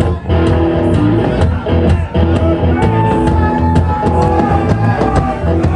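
Loud rock music with electric guitar and a steady drum beat, one note held for about a second partway through.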